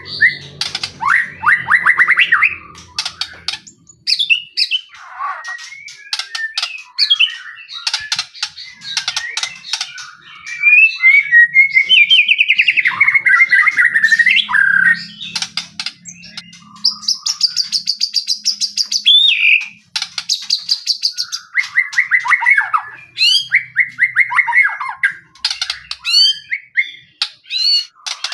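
White-rumped shama (murai batu) singing in full, non-stop song. It runs through a varied string of whistles, fast trills, rising and falling notes and sharp clicks, with a rapid high buzzing rattle about two-thirds of the way through.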